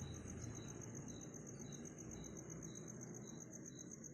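Insects chirping, likely crickets: a high, fast pulsing trill with a lower chirp repeating about twice a second, faint over a low steady rumble.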